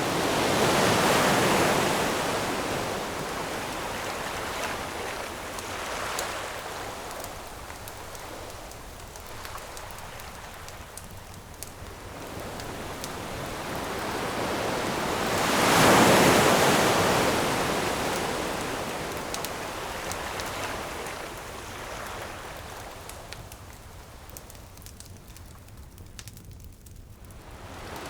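Ocean waves breaking and washing up the shore, two large surges about fifteen seconds apart that swell and slowly ebb. Faint campfire crackles tick through the quieter stretches between waves.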